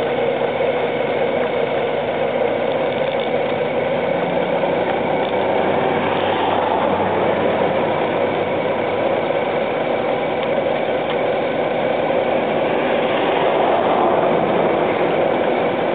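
Honda GL1800 Gold Wing's flat-six engine running steadily at low speed, a continuous even engine-and-road noise with no change in pace.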